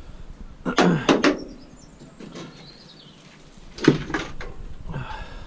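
Knocks and clatter of scrap metal parts being handled and worked on, with light scraping between them. There are two knocks close together about a second in, and the loudest, sharpest knock comes about four seconds in.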